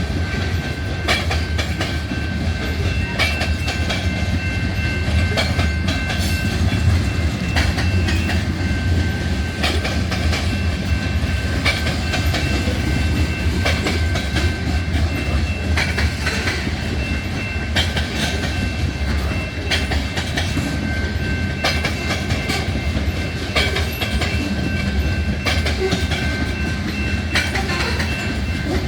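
Freight train of hopper cars rolling past: a steady low rumble with frequent clicking of wheels over rail joints, and a thin steady high-pitched squeal running under it.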